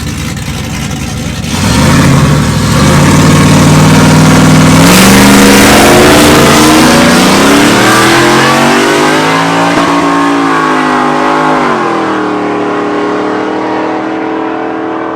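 Two nitrous pickup trucks launching off the line on a drag strip about one and a half seconds in, their engines at full throttle with the pitch climbing in steps at each gear shift. Near the end the pitch drops and the sound slowly fades as the trucks run away down the track.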